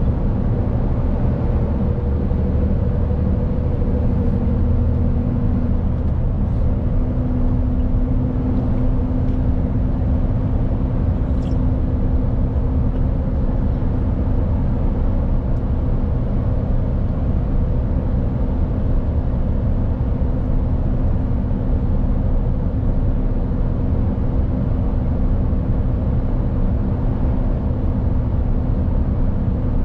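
Mercedes Actros truck's diesel engine running steadily on the move, with road noise; the engine note shifts slightly about six seconds in, then holds even.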